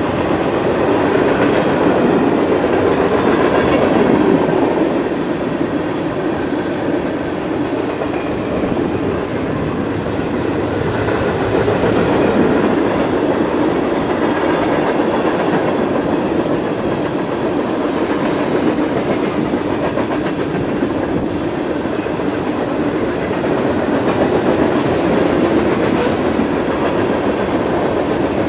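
Freight train cars rolling past close to the track: a steady, loud rumble and clatter of steel wheels on the rails.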